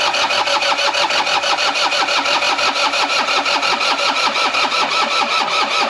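Excavator diesel engine being cranked over on its electric starter in a fast, even chug, not firing. The cranking is pulling fuel up to bleed air out of the injection pump.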